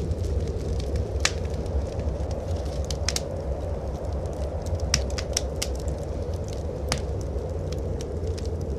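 Wood fire in a fireplace crackling, with irregular sharp pops and snaps, over a steady low rumble of blizzard wind.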